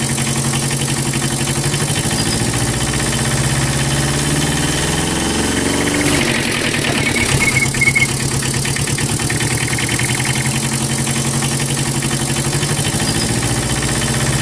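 Homemade mini tractor's motor running steadily with an engine-like drone. Its pitch shifts briefly about six seconds in, with a few short high chirps just after.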